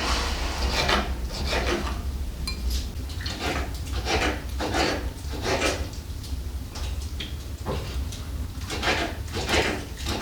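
Repeated rubbing or scraping strokes, a little under one a second, over a steady low hum.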